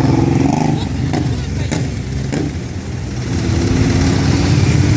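Motorcycle engines running, dipping in level about halfway through and rising again near the end, with a few sharp clicks in the first half.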